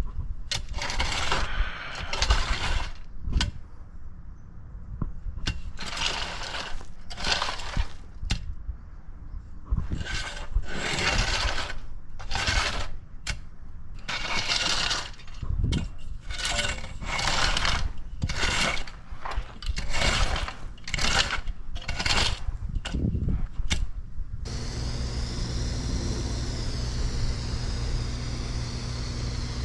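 Hand raking of loose asphalt millings: a run of irregular scraping, crunching strokes, each under a second long. Near the end this gives way to an engine running steadily.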